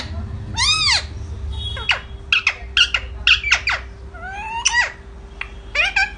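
Pet parrot calling repeatedly. An arching squawk comes about a second in, then a quick run of short, down-sliding squeaks, and a few more rising and falling calls near the end.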